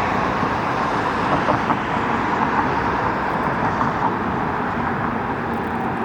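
Steady road traffic noise: vehicles running by on the road, with no siren audible.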